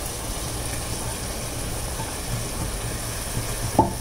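Coarsely ground coconut, green chilli and shallot mixture frying quietly in a non-stick kadai as it is tipped in and stirred with a wooden spatula, over a steady low hum; a brief sharper sound near the end.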